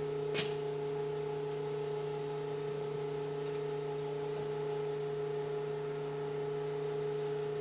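A steady hum made of several fixed tones, with one sharp click about half a second in and a few faint ticks after it.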